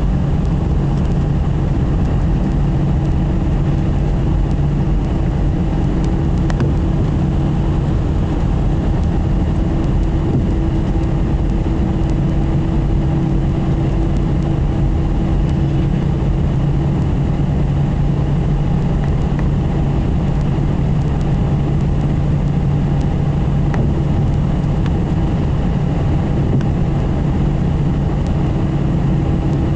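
An Airbus A320's jet engines running steadily, a constant loud rush with low hums and steady tones that never rise or fall. One higher tone in the hum drops away about halfway and comes back near the end.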